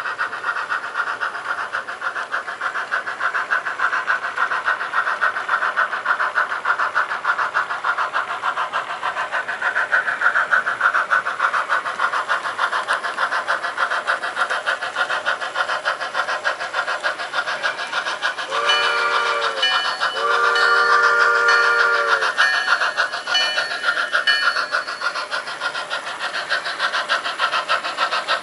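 HO scale model steam locomotive's sound unit playing a steady, rapid beat of exhaust chuffs, with two whistle blasts about two-thirds of the way through: a short one, then a longer one.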